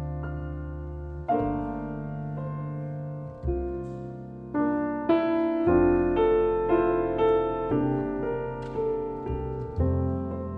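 Piano playing a slow, gentle melody over held low notes, with the notes coming faster in the middle before settling again.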